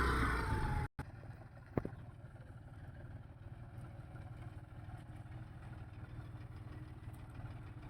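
A diesel engine running loud, cut off abruptly about a second in, then a faint steady low engine hum with a single sharp click just under two seconds in.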